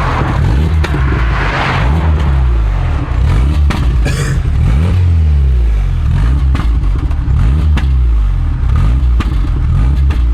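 Mk3 Volkswagen Golf's 8-valve four-cylinder engine accelerating hard through the gears, its pitch climbing and then dropping at each shift, loud through an exhaust with no rear silencer box. Several sharp cracks are heard along the way.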